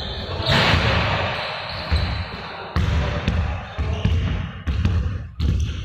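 Balls bouncing on a hard floor: repeated dull thumps at an uneven pace, about two a second.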